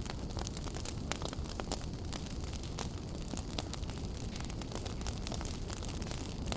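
Wood fire burning in a fireplace: a steady low rumble of the flames with many small, sharp crackles and pops at irregular intervals.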